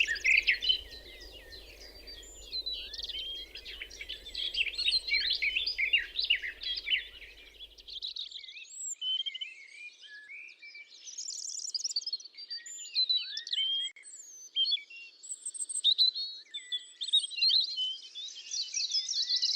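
Several songbirds chirping and singing over one another, with a low background rumble that stops abruptly about eight seconds in; after that the calls are sparser.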